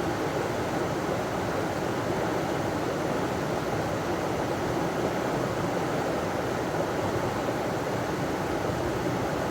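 River water pouring over a small waterfall, a steady, even rush.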